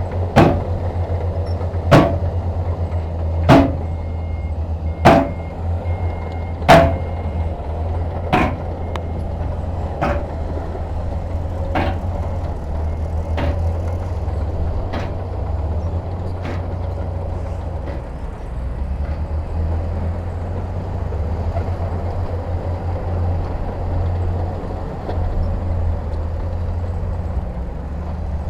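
Heavy diesel machinery engine running steadily, with a series of sharp metallic knocks about every second and a half that grow fainter and stop around halfway through.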